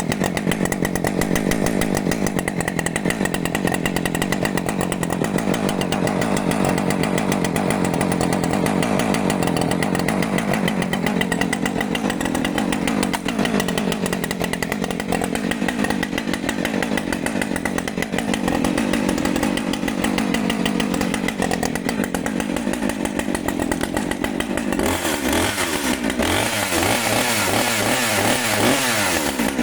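Husqvarna 545 Mark II two-stroke chainsaw engine running steadily after a cold start, its pitch wavering slightly, with a change in its note about 25 seconds in.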